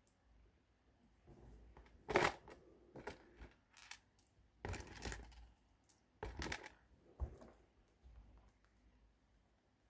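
LEGO plastic pieces being handled and pressed together: scattered clicks and short rustling bursts, loudest about two seconds in and again around five and six and a half seconds.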